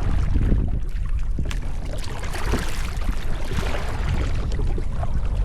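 Wind rumbling on the microphone, with water splashing and swishing in a few swells as a kayak paddle dips, the largest about halfway through.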